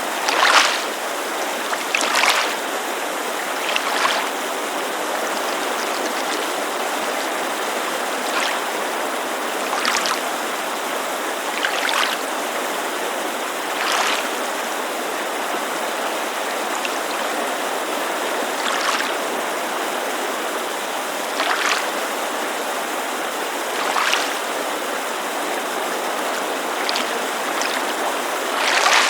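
Small waves lapping against a lake shore, each a soft splash every few seconds, over the steady rush of a mountain creek.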